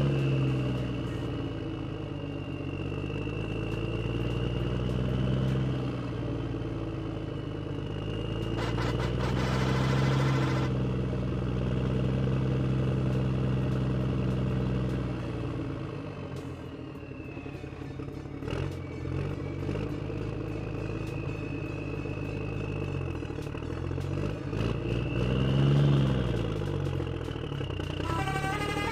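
Engine sound of a heavy vehicle, its pitch rising and falling several times as it revs, with scattered clicks and clatter.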